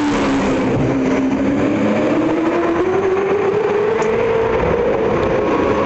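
V8 Supercar's V8 engine at racing speed. Its pitch dips briefly at the start as it slows, then climbs steadily as it accelerates, and levels off near the end.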